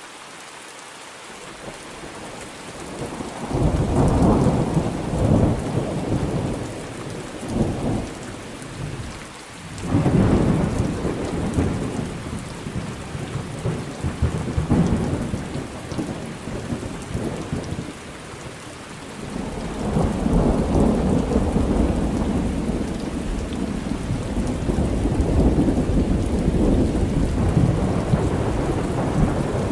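Steady rain with rolling thunder: a first long peal swells about three seconds in, another about ten seconds in, and a third long rumble starts a little before halfway through the clip's second half (around 19 s) and runs on.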